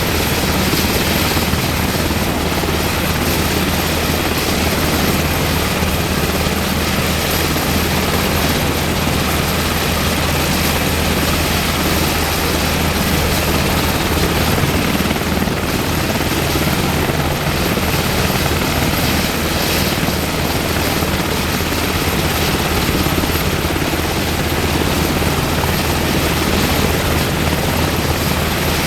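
UH-60M Black Hawk helicopter's twin turboshaft engines and rotor running steadily, a loud, even drone.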